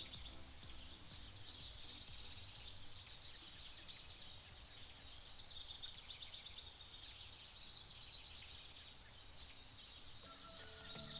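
Wild birds singing, a steady stream of quick, high chirps and short trills overlapping one another.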